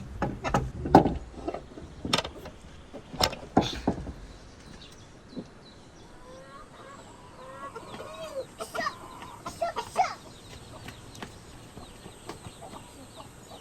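A series of sharp knocks in the first few seconds, then chickens clucking in short rising-and-falling calls around the middle.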